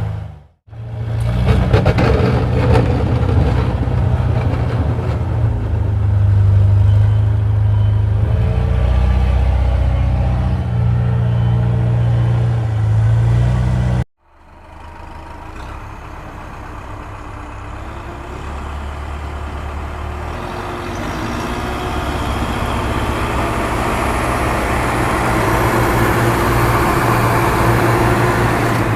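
Heavy vehicle engine running steadily. It cuts off abruptly about half a second in and again about fourteen seconds in, and after the second cut it comes back quieter and slowly grows louder.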